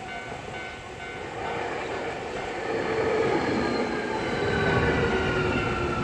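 Level-crossing warning bell ringing as a Keio Inokashira Line train arrives at the crossing. The train's noise builds from about a second and a half in and stays loud, with a whine that falls slowly in pitch.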